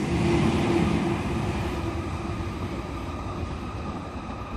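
Sydney Trains M set (Millennium) eight-car electric train passing through the station without stopping, its running noise and a low steady hum fading as it moves away.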